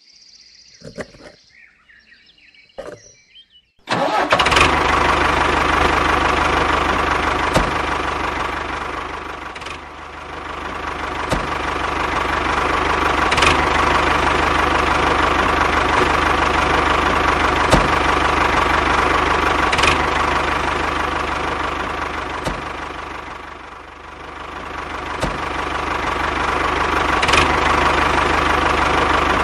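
Small motor of a DIY mini tractor machine switching on about four seconds in and running steadily, its level dipping twice and recovering.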